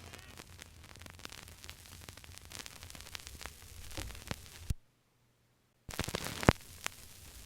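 Old record's surface noise between tracks: faint hiss with scattered crackles and pops. It cuts to dead silence for about a second midway, then the crackle resumes with a couple of sharper pops.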